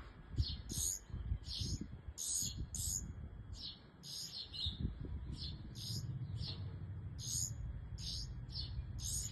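Small birds chirping in short, high-pitched chirps, about two a second, over a steady low rumble.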